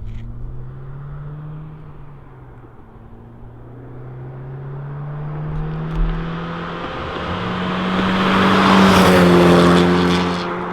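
Honda Civic Type R's turbocharged 2.0-litre four-cylinder, breathing through a catless downpipe and Remus valved cat-back exhaust, accelerating hard in a pull past the microphone. The engine note climbs in pitch as it nears, is loudest about nine seconds in as the car passes, then falls away.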